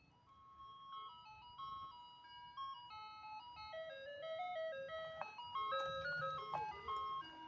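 Ice cream truck's loudspeaker playing its electronic chime melody, growing steadily louder as the truck approaches. A low engine hum comes in underneath near the end.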